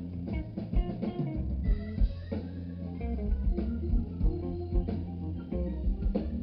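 Live blues band playing: guitar lines over a bass guitar and drum kit keeping a steady beat.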